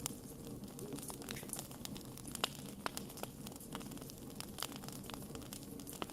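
Wood fire crackling: irregular sharp snaps and pops, a few each second, over a steady low hiss of burning.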